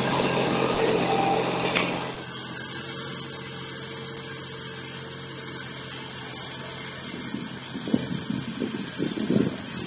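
Sears Suburban garden tractor engine running steadily while snowblowing, with a sharp click about two seconds in, after which it is quieter. Irregular rough noise comes in near the end.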